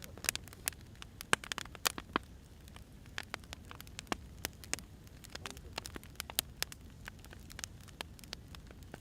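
Firewood burning: irregular sharp crackles and pops, several a second, over a low steady rush of the fire.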